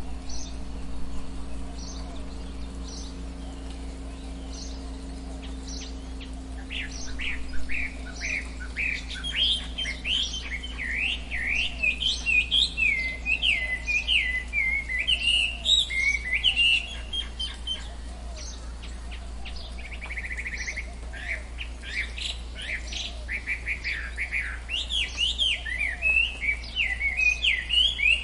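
Several birds calling in a tropical forest: bursts of rapid, high chirps and short rising and falling notes, building up about eight seconds in and again in the second half, over a steady low background hum.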